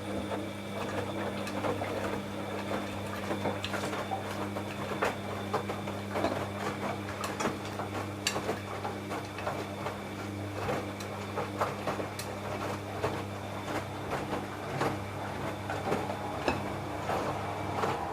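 Washing machine running: a steady motor hum under many irregular clicks and knocks as the drum turns.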